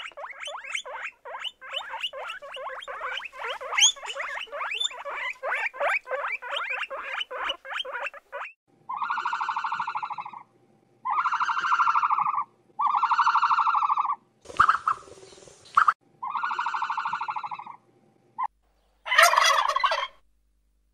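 Guinea pigs squeaking and chirping in a rapid, overlapping string for about eight seconds. Then five evenly spaced buzzy calls of about a second and a half each, with a short hissing burst between the third and fourth, and a turkey gobbling near the end.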